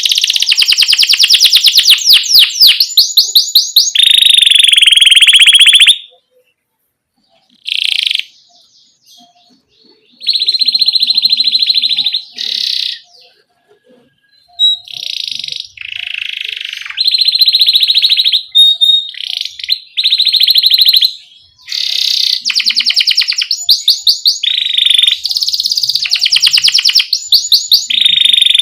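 Domestic canary in full song, singing fast rolling trills in phrase after phrase. It breaks off twice for a second or so, then starts again.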